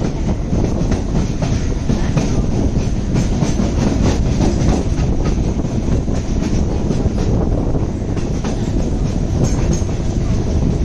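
Chennai MRTS electric suburban train running at speed, heard from the coach's open doorway: a steady rumble of wheels on rails with irregular clicks and clatter from the track.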